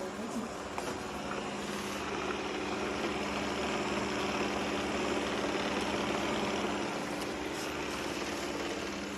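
Shark robot vacuum cleaner running as it cleans the floor: a steady motor whir and hum that grows a little louder in the middle, with a few faint clicks.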